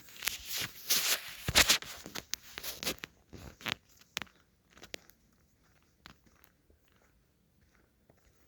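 A loud burst of close crunching and crackling lasting about four seconds, then a few scattered faint clicks.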